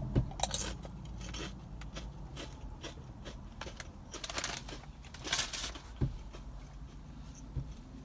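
Baked Lay's potato chips being bitten and chewed: irregular crunching and crackling, with a few louder bursts of crunch.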